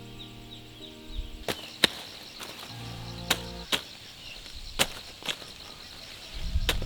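Sharp chopping strikes in pairs, seven in all, over a steady high insect-like pulsing trill and soft sustained music tones.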